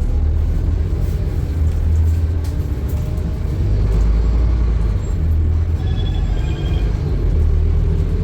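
Scania N230UD double-decker bus's diesel engine running under way, a loud, steady low rumble. A brief high-pitched tone rings out about six seconds in.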